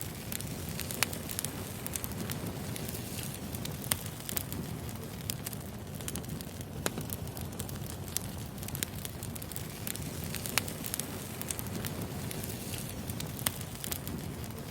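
Wood fire burning with a steady low rumble and frequent irregular crackles and pops of burning firewood, a few of them sharper and louder.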